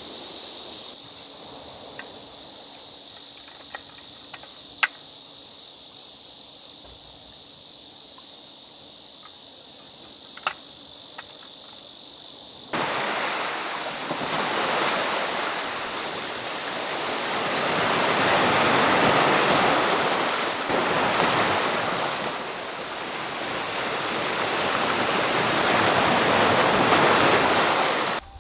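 Insects chirring steadily at a high pitch, with a few light clicks. About halfway through, sea surf comes in suddenly and runs on as a rushing wash that swells and ebbs like breaking waves.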